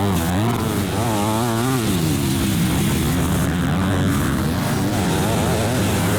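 Several motocross bikes racing, their engines revving up and down as riders work the throttle through the track.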